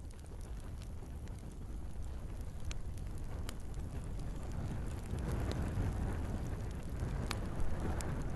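Wood fire burning in a fireplace: a low steady rush of flames with sharp crackles and pops every second or two, the flame noise growing fuller about five seconds in.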